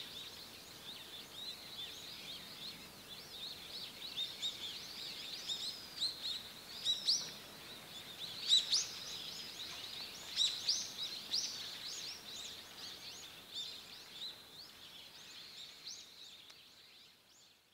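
Small forest birds calling, many short high-pitched chirps and twitters overlapping over a faint steady hiss of forest ambience; the sound fades out near the end.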